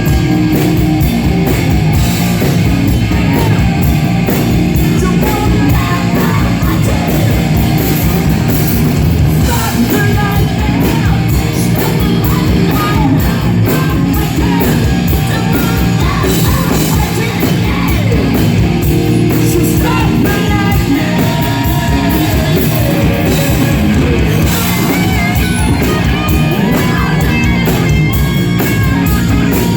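Live glam-metal band playing loud: distorted electric guitars and a pounding drum kit, with a singer's voice over them.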